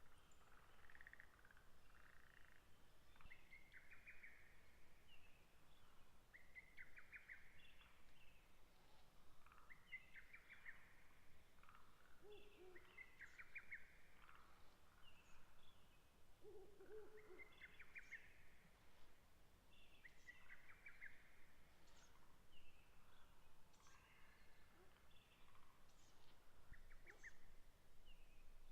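Two faint, low hoots from a Ural owl, about twelve and seventeen seconds in, over a background of short trilling calls that repeat every few seconds.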